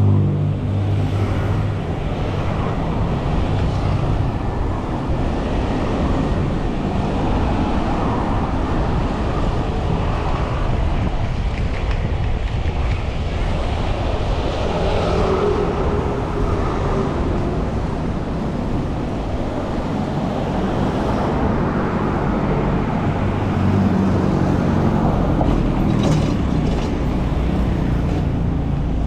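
City street traffic: motor vehicles running and passing in a steady roadway din. The engine hum is heavier at the start and again near the end.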